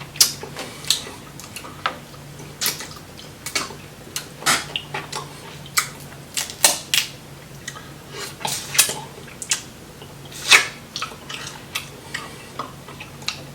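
Close-miked eating and shelling of snow crab and tiger prawns: irregular sharp cracks and clicks of shell breaking, mouth sounds and utensil contact.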